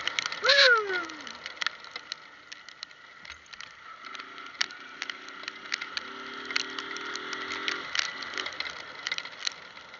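Small motorcycle riding: the engine note drops just after the start, then rises slowly over a few seconds in the middle as it pulls again. Many sharp ticks run through it.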